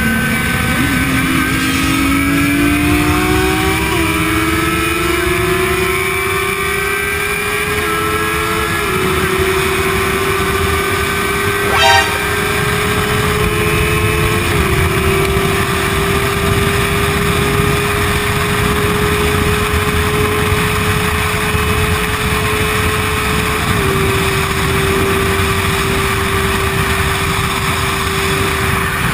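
Sportbike engine pulling hard up through the gears: its note climbs and drops back at each upshift, then holds a steady high note at speed. Heavy wind rush covers it throughout, and there is a brief clicking burst about midway.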